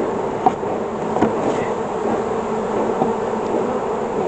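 Honeybees from an opened hive buzzing steadily all around, a dense, even hum with a few light clicks.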